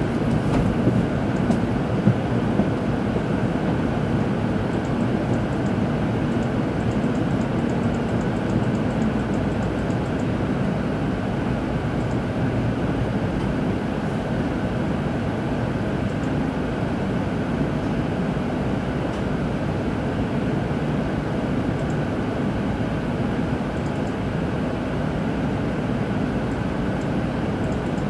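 Tokaido Shinkansen train heard from inside the passenger car: steady running noise with a few light clicks in the first couple of seconds.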